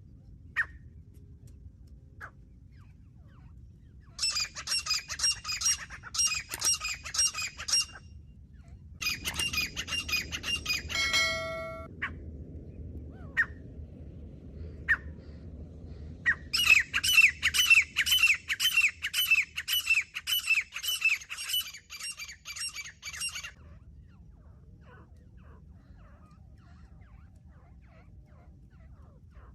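Teetar partridge calling in three runs of rapid, harsh, repeated notes. A short ringing chime sounds briefly near the middle.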